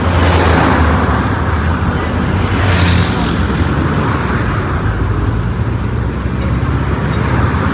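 Mercedes-Benz OF1722M bus under way, its engine and drivetrain running steadily with a low drone over road noise. There is a brief hiss about three seconds in.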